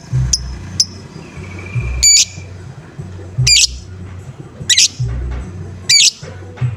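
A lovebird giving short, sharp calls, four loud ones spaced a little over a second apart after two faint chirps at the start, over a low thudding beat.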